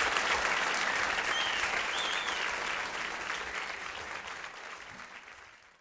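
Audience applause with a couple of short whoops, fading away and cutting off to silence at the end.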